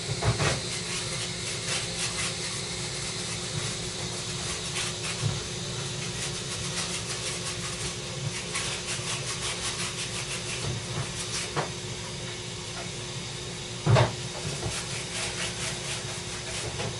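Steady hiss over a low hum, with scattered light clicks and a louder knock about 14 seconds in.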